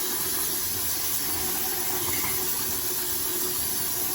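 A power tool running steadily: a loud, even hiss with a faint steady hum underneath.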